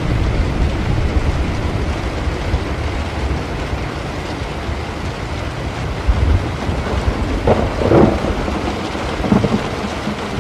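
Steady rain with low rumbling thunder. A few louder rumbles rise about three-quarters of the way through and again near the end.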